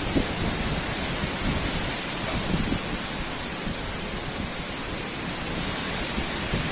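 Strong wind blowing in a steady rush, with rain hissing.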